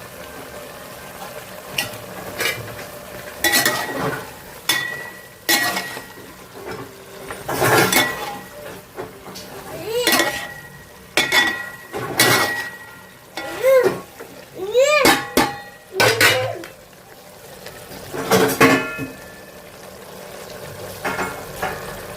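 Metal spoon stirring in a cooking pot, clinking and scraping against the metal in irregular strokes about once a second, several of them ringing briefly.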